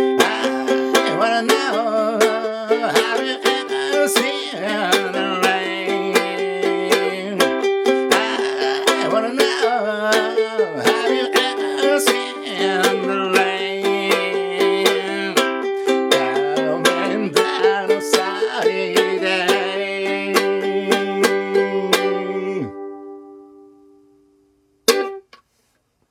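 Applause by Ovation UA20 ukulele strumming chords in a steady rhythm, then a final chord left to ring and fade away. A single short knock follows near the end.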